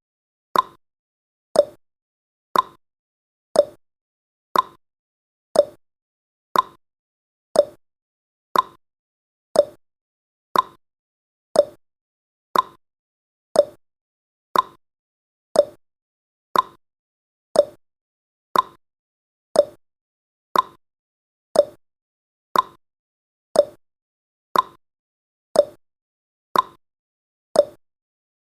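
Clock-style tick-tock sound effect of a countdown timer: short sharp ticks about once a second, alternating between a higher and a lower pitch.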